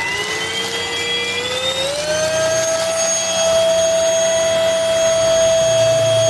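MBYULO cordless stick vacuum's motor just switched on and spinning up: a rising whine that climbs in two steps over about two seconds, then holds a steady high pitch.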